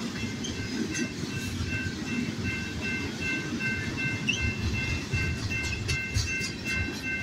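Freight train cars rolling past close by: a low rumble with wheel clicks on the rails, while a railroad crossing bell rings in even, rapid strokes.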